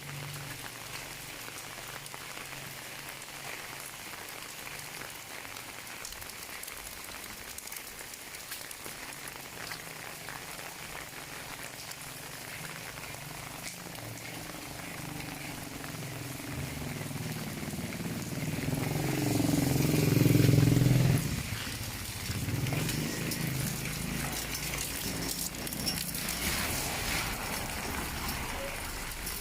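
Steady rain falling, an even hiss of drops on surfaces. About two-thirds of the way through, an engine passes close by, growing louder and then dropping away suddenly.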